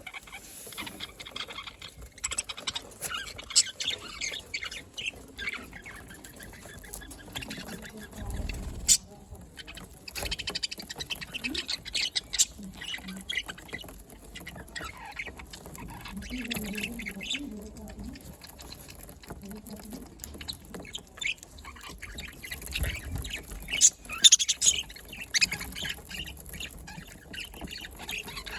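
A flock of budgerigars chattering, with many rapid overlapping high chirps and warbles. A few louder sharp calls stand out, and there are brief low thumps.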